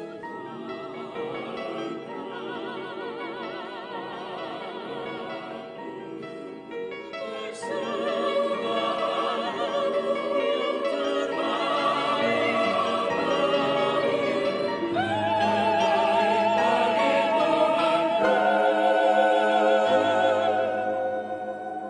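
Classical, operatic-style singing with wide vibrato over accompaniment. It swells louder about eight seconds in, climbs to long held high notes in the last third, and ends on a sustained note.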